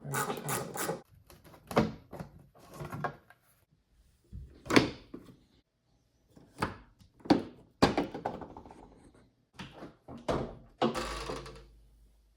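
Plastic interior trim panel in a Jeep Gladiator cab being pulled and worked loose: a series of separate knocks, clicks and short scrapes with pauses between them.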